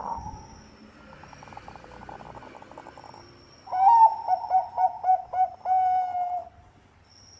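Zebra dove (perkutut) cooing. A faint purring trill comes first, then a loud run of about eight quick staccato coos, each dipping in pitch, ending in a longer held note.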